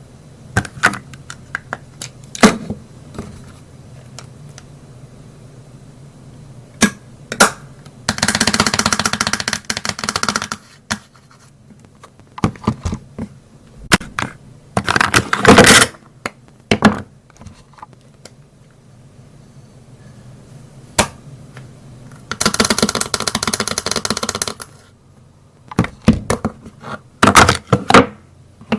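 Cosmetic containers being handled: scattered sharp clicks and taps of lids and cases. There are two longer stretches of rapid rattling-scratching, each about two seconds long, one about eight seconds in and one about twenty-three seconds in.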